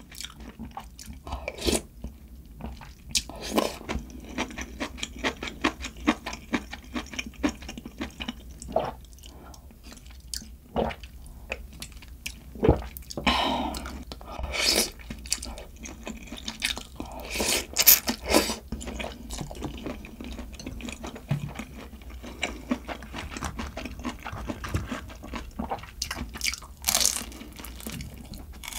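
Close-miked eating: a person biting, crunching and chewing food, with irregular crackles throughout and a few louder crunchy bites about halfway through and near the end.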